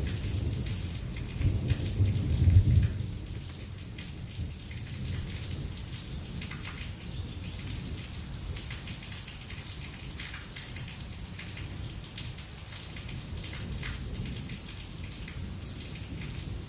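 Heavy rain falling steadily with close drops pattering on a surface. A low rumble of thunder swells in the first seconds, peaks about two and a half seconds in, then dies away under the rain.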